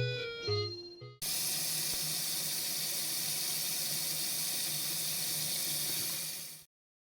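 A few fading notes of keyboard music, then a steady rushing hiss like running water or wind that starts abruptly about a second in and cuts off suddenly near the end.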